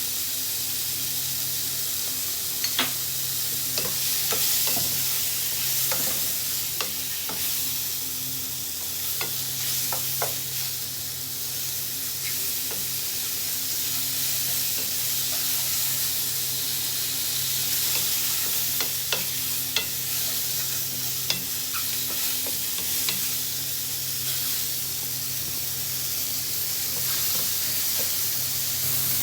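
Mushrooms frying in butter in a pan, a steady high sizzle, with scattered sharp clicks and scrapes of a utensil stirring them against the pan.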